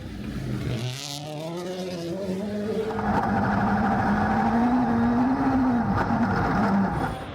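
Rally car engine accelerating hard, its pitch climbing steadily for several seconds and then dropping off near the end as the driver lifts.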